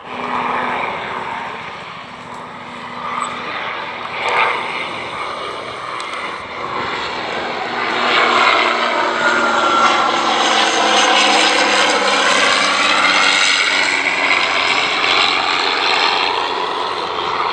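Aircraft flying past at an airshow display, its engine noise growing louder about eight seconds in, with a sweeping, phasing shift in tone as it passes, and easing slightly near the end.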